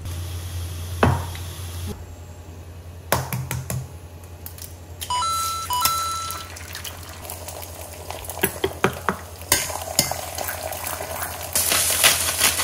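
Kitchen cooking sounds: utensils clicking against pots over a steady low hum, an appliance giving a two-note electronic beep twice about five to six seconds in, and a loud sizzling hiss with crackles starting near the end.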